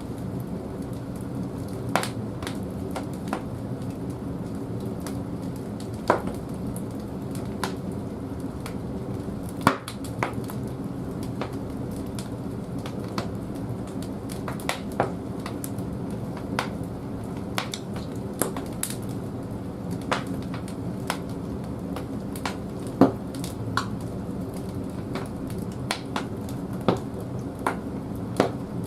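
Firewood burning in the firebox of an old wood-fired bathhouse boiler: irregular sharp crackles and pops over a steady low roar.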